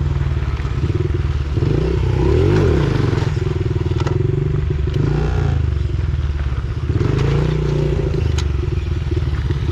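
Small pit bike engine running under way, its pitch rising and falling as the throttle is opened and rolled off, with a few sharp clicks and clatter from the bike over rough dirt.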